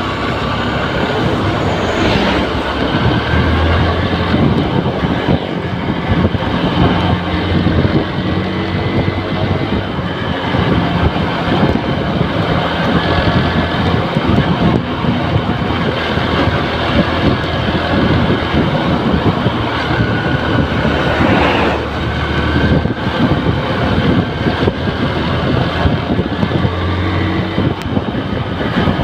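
Honda New Megapro's single-cylinder engine running as the motorcycle is ridden, its note shifting up and down now and then with the throttle, over steady wind and road noise.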